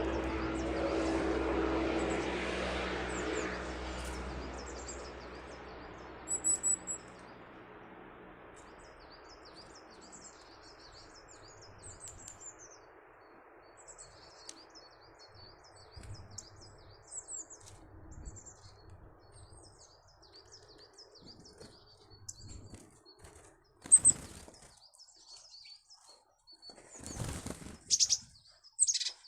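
Small garden birds chirping and twittering repeatedly, with a few sudden flutters of wingbeats near the end, the sharpest of them the loudest sound. Over the first several seconds the low drone of a passing aircraft fades away.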